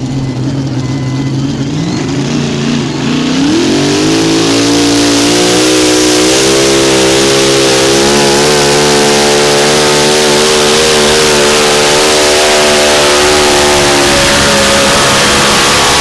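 Modified mini pulling tractor's engine at full power on a pull: it revs up sharply about three seconds in, then runs loud at high revs, held nearly steady, as the tractor drags the sled down the track.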